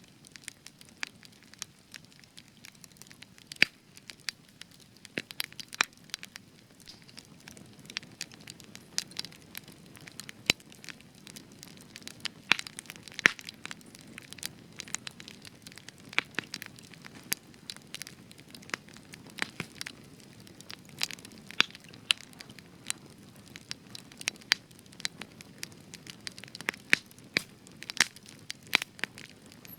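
Spruce wood campfire burning with frequent sharp, irregular crackles and pops over a soft low rush of flame.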